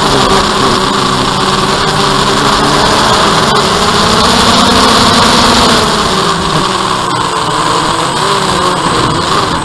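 DJI Phantom quadcopter's motors and propellers humming steadily in flight: several close, even tones over a broad rushing hiss.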